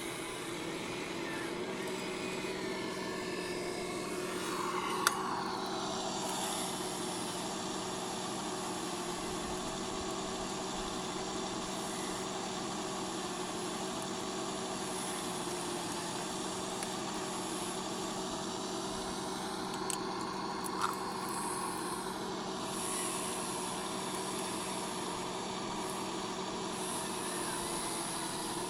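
Electric motors and gearing of radio-controlled model construction machines whining steadily. The pitch slides down and back up twice as the motor speed changes, with a sharp click each time.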